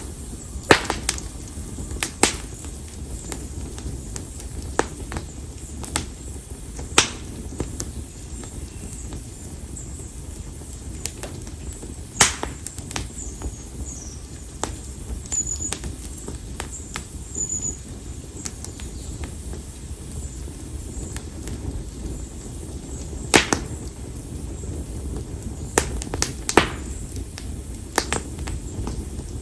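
Konara oak firewood burning in an open bonfire: sharp crackles and pops at irregular intervals, some of them loud, over a low steady rush of flame.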